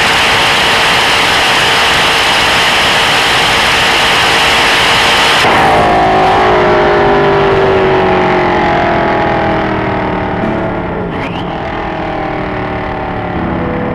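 A loud, steady roar that cuts off suddenly about five seconds in, followed by a sports car's engine whose pitch falls slowly.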